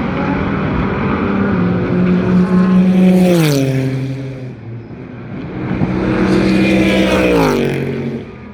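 Two Super GT race cars passing close by at speed one after another, each engine note holding steady and then dropping sharply in pitch as the car goes past, about a third of the way in and again near the end.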